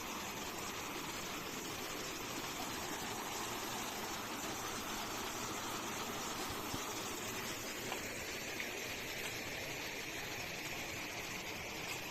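A stream running: a steady rush of flowing water.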